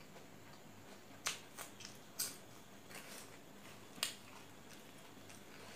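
A person chewing a mouthful of food: several sharp crunchy clicks and mouth smacks, the loudest about one, two and four seconds in.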